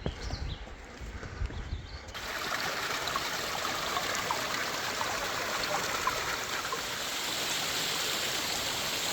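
Bridal Veil Falls cascading: a steady, dense rush of falling water that comes in abruptly about two seconds in. Before it come footsteps on the trail and a few bird chirps.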